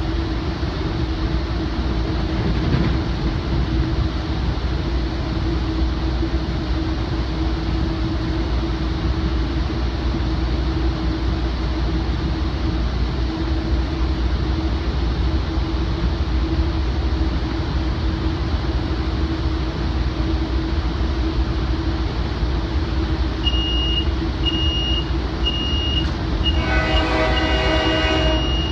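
Steady rumble and hum of a commuter train running, heard inside a Rotem cab car coupled behind a GE AC4400CW diesel locomotive. Near the end the cab car's alerter starts beeping, a high tone in short beeps that turns continuous, and the locomotive's air horn sounds once, briefly.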